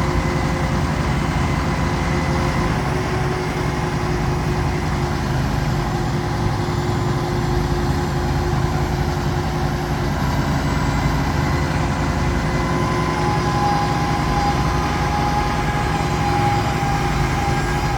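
A heavy engine running steadily at an even speed, with no revving or load changes.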